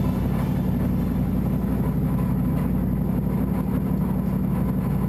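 Mercedes-Benz SLS AMG GT3 race car's V8 engine running steadily at low revs, heard inside the cabin.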